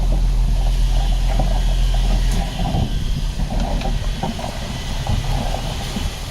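Heavy diesel engine of earthmoving machinery running with a steady deep hum, with rattling over it. About two and a half seconds in the hum eases and gives way to a rougher, uneven rumble.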